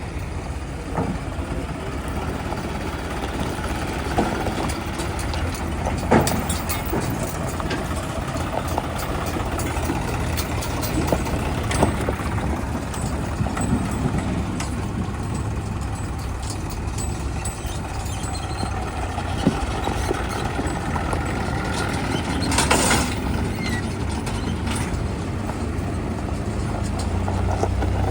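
Heavy diesel engine running steadily, with a few sharp knocks or clanks scattered through, one later on standing out.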